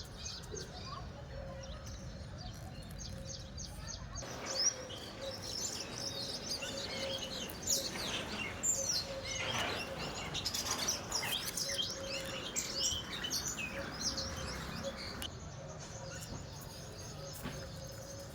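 Birds chirping: many short, quick high calls overlapping, busiest from about four seconds in to near the end, over a faint steady tone.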